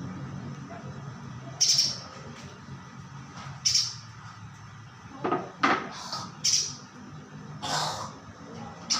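A spiderhunter giving short, sharp calls, about seven of them spaced unevenly, with a faint low hum underneath.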